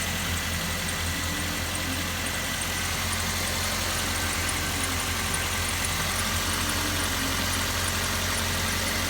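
2009 Suzuki SX4's four-cylinder engine idling steadily.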